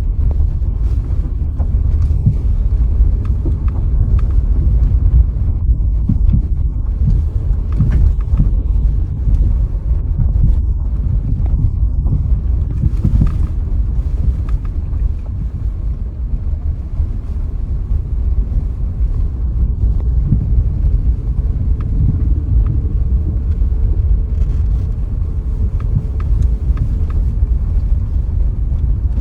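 Steady low rumble of a moving vehicle's road and wind noise, with scattered light knocks and rattles from bumps in the road.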